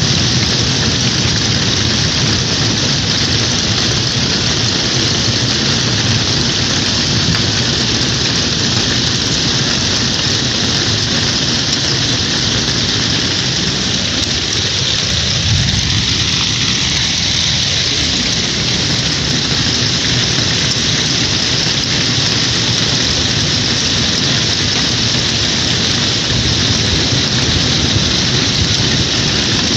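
Heavy rain mixed with hail pouring down in a steady, dense hiss.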